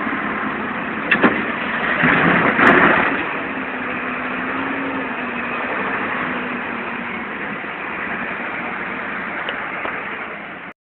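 A vehicle engine running steadily, with two sharp clicks about a second in and a louder stretch around two to three seconds. The sound cuts off abruptly just before the end.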